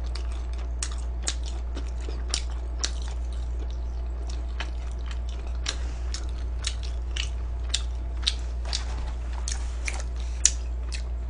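A person chewing crunchy food close to the microphone: many irregular crisp crunches, a few louder than the rest, over a steady low electrical hum.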